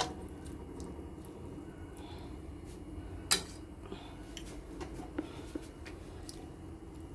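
A utensil clinking against a cooking pot a few times, with one sharper clink about three seconds in, over a steady low hum.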